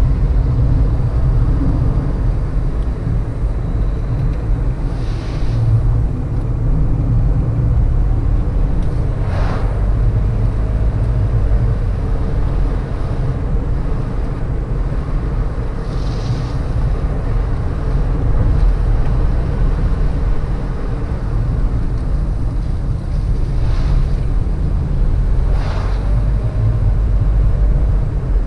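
A car being driven, heard from inside: a steady low rumble of engine and road noise with some wind, broken by a few brief sharper sounds.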